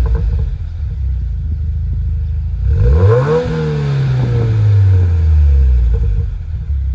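2019 Subaru WRX's turbocharged flat-four engine idling through its exhaust, blipped once about three seconds in: the revs climb quickly, then fall slowly back to idle.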